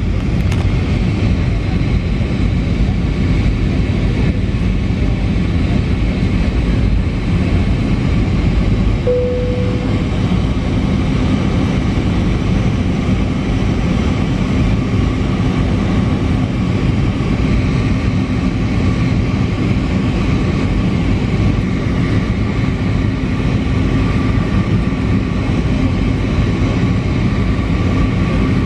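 Steady engine and airflow noise of an SAS Airbus A320neo with CFM LEAP-1A engines, coming in to land. It is a continuous low, heavy rumble with faint steady engine tones, and a short tone sounds about nine seconds in.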